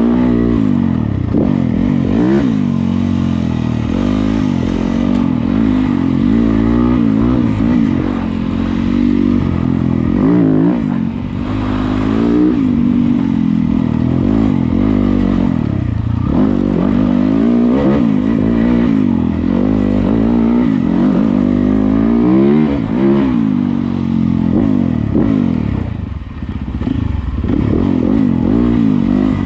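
Yamaha YZ250FX 250cc four-stroke single-cylinder dirt bike engine being ridden, its pitch rising and falling again and again as the throttle is worked, with a short easing off of the engine late on.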